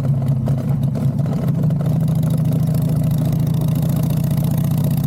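Harley-Davidson motorcycle's V-twin engine running steadily at a low, even pitch.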